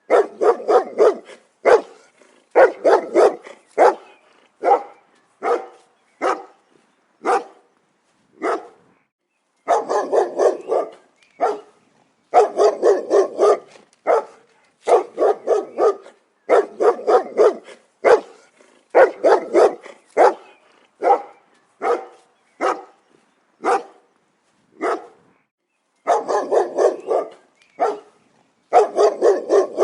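A dog barking repeatedly, in quick volleys of two to five barks with short pauses between them.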